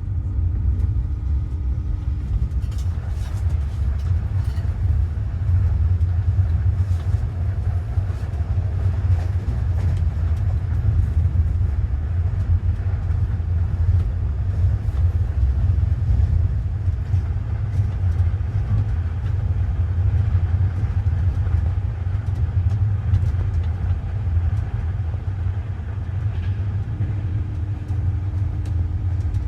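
Running noise of a moving passenger train: a steady low rumble with scattered faint clicks and rattles. A faint steady hum sounds for the first couple of seconds and again near the end.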